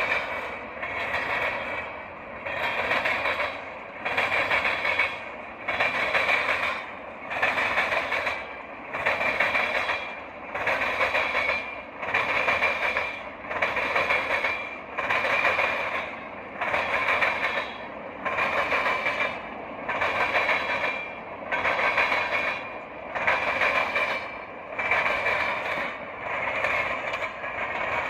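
Train cars rolling past on the rails, with a rhythmic swell of scraping wheel noise about once a second and a faint steady squeal running through it.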